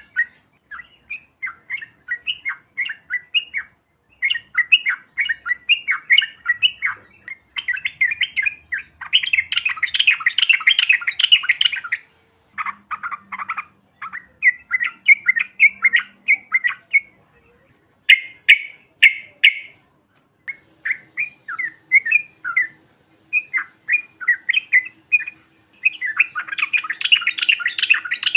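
Yellow-vented bulbul (trucuk) singing: short phrases of quick chattering notes broken by brief pauses. The song breaks into a long, dense, rapid trill (ropel) about nine seconds in and again near the end.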